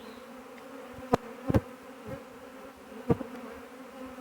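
A large honey bee swarm buzzing, a steady hum of many wings. Three sharp taps or knocks stand out over it, at about one second, a second and a half, and three seconds in.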